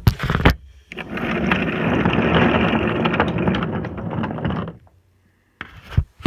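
Wooden toy train engine and cars rolling along wooden track, a steady rolling rumble for about four seconds, with a few sharp knocks before it starts and after it stops.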